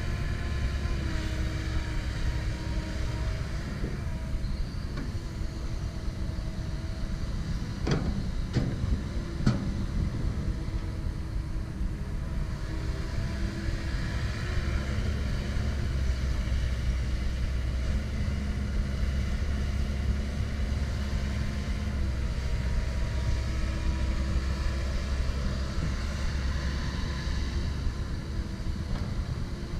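Komatsu PC170LC-10 excavator's diesel engine running steadily under work, with tones that come and go over it and a few sharp knocks about eight to nine and a half seconds in.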